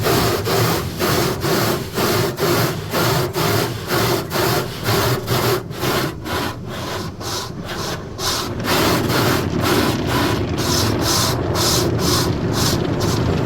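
Automatic tunnel car wash equipment working over the car, heard from inside the cabin: a rhythmic swishing about two or three times a second, easing a little midway and then growing sharper again near the end.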